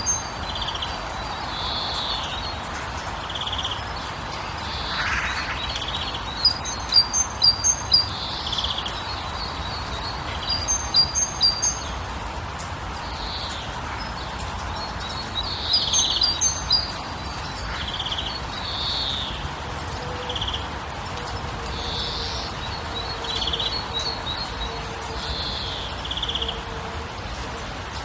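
Small birds chirping and calling, with quick runs of short high notes repeated every few seconds, over a steady background rush of noise.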